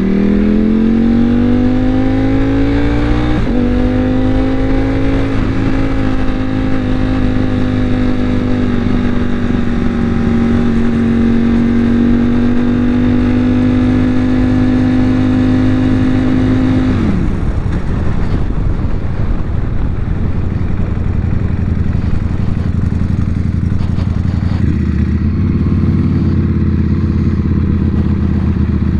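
Motorcycle engine under way. It pulls up in pitch over the first few seconds, holds a steady cruising note, then drops off sharply as the throttle closes a little over halfway through. A rougher, rushing stretch follows, then it settles into a lower steady note near the end.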